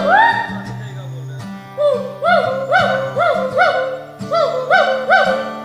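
Hoolock gibbon calling: one long whoop that rises and falls, then a run of short, rising-falling whoops, about three a second, that quicken toward the end.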